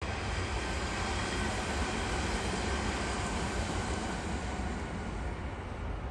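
A train running on nearby tracks: a steady rumble and hiss of rail noise that eases slightly near the end.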